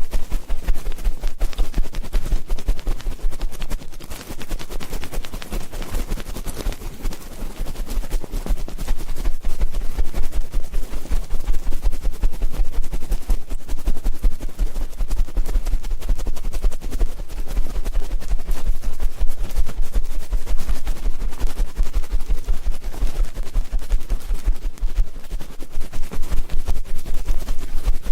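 Ear-cleaning ASMR on a close microphone: a dense, fast run of crackling scratches and clicks with low thumps underneath.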